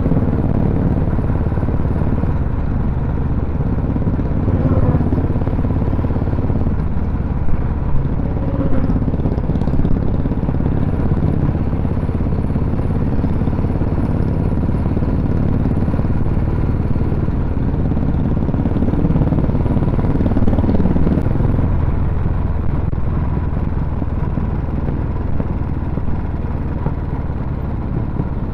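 Motorcycle running steadily on the move, with a continuous low engine and road rumble whose pitch shifts a little now and then.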